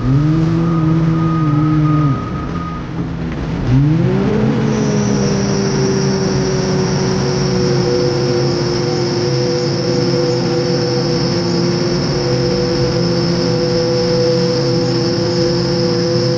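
Diesel engine of heavy earthmoving equipment working under load: it eases off about two seconds in, revs back up near four seconds and holds high, with a steady high-pitched whine over it, then drops right at the end.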